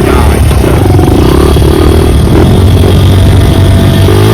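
Dirt bike engine running under way on a trail, revving up and down, with a rise in pitch near the end.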